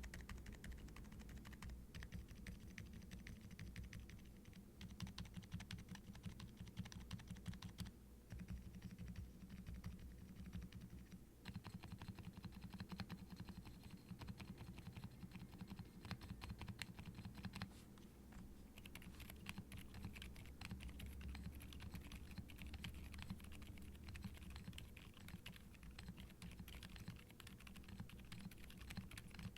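Steady, quiet typing on a custom 65% mechanical keyboard with WEKT Lucy V5 silent linear switches, an ABS plate and double-shot ABS keycaps. The keystrokes are soft, muted taps with no sharp clack, as expected of silent switches with TPU-dampened stems.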